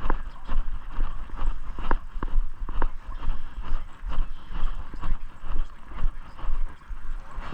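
Footsteps at a walking pace, about two steps a second, with a low rumble of wind or handling on the microphone.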